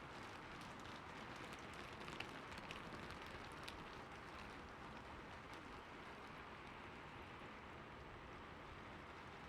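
Rain falling steadily, a continuous hiss with a few sharper drop taps about two to four seconds in.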